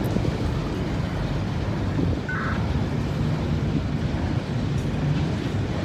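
Freight train of empty auto rack cars rolling past, a steady rumble of wheels on rail.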